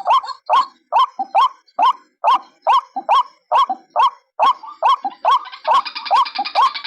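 White-breasted waterhen calling, a lure recording: short rising 'kru-ak' notes repeated steadily about two a second. Near the end a second, higher chattering voice joins over them.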